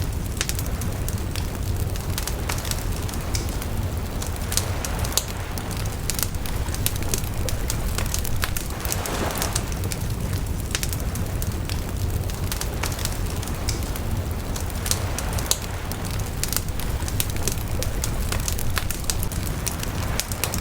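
Bonfire crackling, with many irregular sharp pops and snaps over a steady low rumble of the burning fire.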